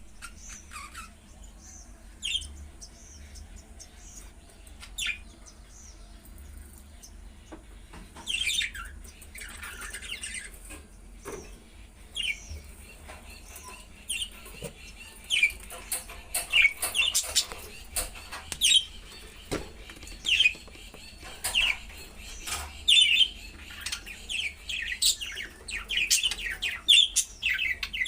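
Budgerigars chirping and chattering: scattered short calls at first, becoming frequent and busy from about halfway, with a few sharp clicks among them.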